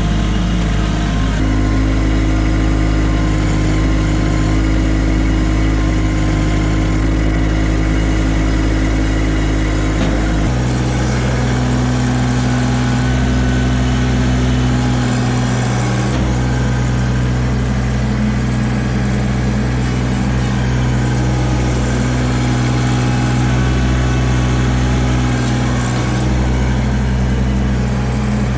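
Kubota LX2610 compact tractor's three-cylinder diesel engine running steadily just after start-up. About ten seconds in its note changes abruptly and then holds steady again.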